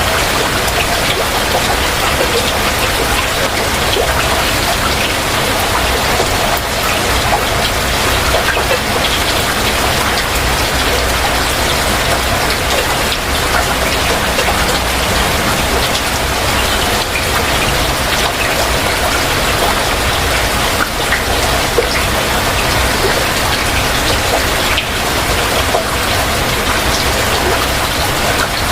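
Heavy rain falling steadily, a dense hiss with many individual drops tapping.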